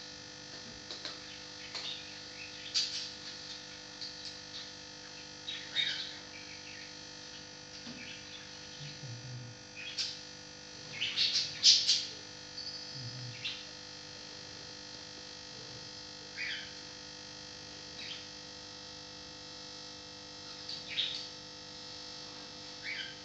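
Short, high bird chirps come irregularly, with a run of louder ones about halfway through, over a faint steady hum. There are a couple of soft low thumps.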